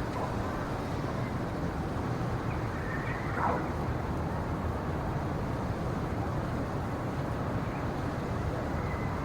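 Steady low rumbling ambient noise of a winter forest soundscape, even in level throughout, with a faint short high sound about three and a half seconds in.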